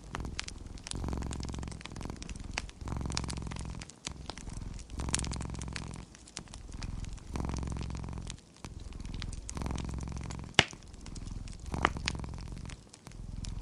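Domestic cat purring, the low rumble swelling and fading with each breath about every second and a half, over the crackle of a wood fire in a fireplace, with scattered clicks and two louder pops about two-thirds of the way through.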